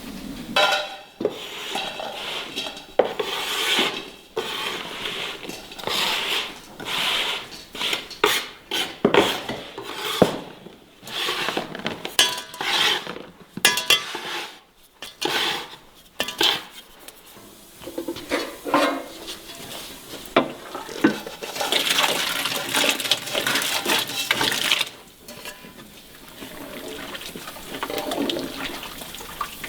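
Kitchen dishes and utensils clattering and knocking in irregular handling during food preparation, with a few seconds of steady rushing noise a little past two-thirds of the way through.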